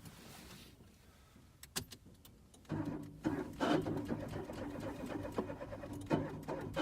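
Citroën C1 ignition key clicking, then from about three seconds in a steady, pulsing hum from the car as the key is turned again. The engine does not start: it won't turn over despite a new battery, which the owner suspects is a fuel pump or filter fault.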